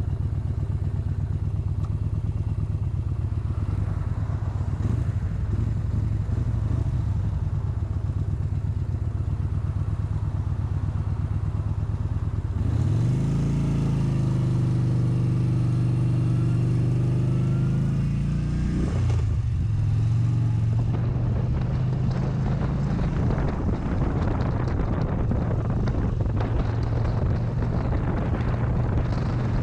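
Motorcycle engine running steadily at low revs. About 13 seconds in it revs up quickly and holds the higher pitch for about six seconds, then drops back. Wind noise rises in the second half.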